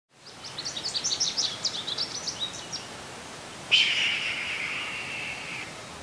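A small bird twittering in quick, high chirps for about three seconds, then a bird of prey's long, hoarse scream that starts suddenly about three and a half seconds in. The scream is the loudest sound and lasts about two seconds.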